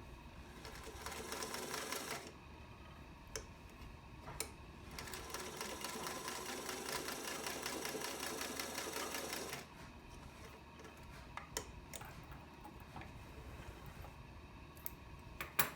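A Singer 221 Featherweight sewing machine stitching through four layers of denim in two runs: a short run about a second in, then a longer one lasting about five seconds. Sharp clicks of handling come between and after the runs.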